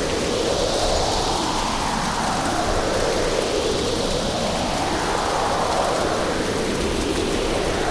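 Hurricane storm: heavy rain pouring steadily, the noise swelling and easing every couple of seconds as the storm gusts.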